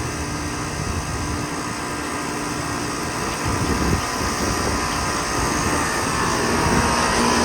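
Two 2024 Carrier Performance Series central air conditioner condensers running: the steady whoosh of their condenser fans over the hum of their Emerson Copeland scroll compressors, growing a little louder near the end.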